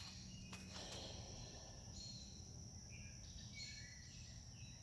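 Faint outdoor background: a steady high insect trill with scattered short bird chirps, and a couple of faint clicks about half a second to a second in.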